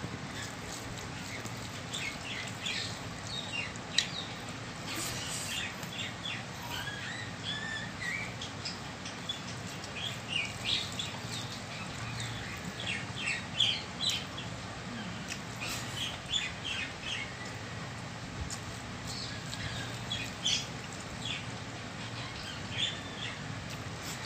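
Small birds chirping over and over, short high chirps with the odd quick rising note, over a low steady hum.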